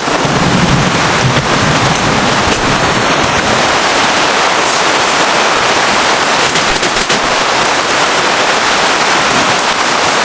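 Heavy rain coming down hard in a steady, dense patter.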